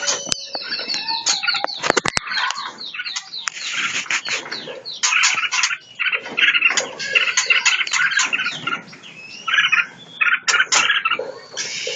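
Caged songbirds in a breeding aviary chirping and calling over one another in quick, overlapping notes and short whistled glides. There are a few sharp clicks about two seconds in.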